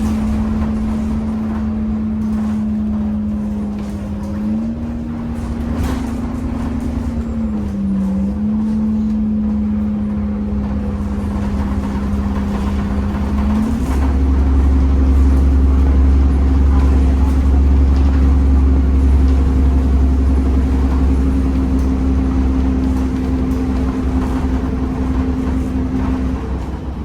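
Temsa Avenue LF 12 city bus running under way, its DAF diesel and ZF automatic gearbox giving a steady drone with a whine that wavers a little, then steps up in pitch about halfway through as the low rumble grows louder.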